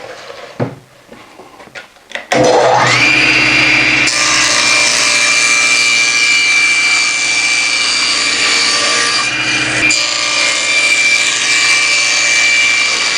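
Table saw starting up about two seconds in, its whine rising to speed, then running steadily with a high whine over the noise of the blade cutting through the edge of a plywood panel.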